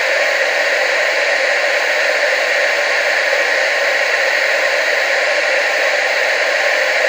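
Television static: a steady, even hiss with little bass, unchanging throughout.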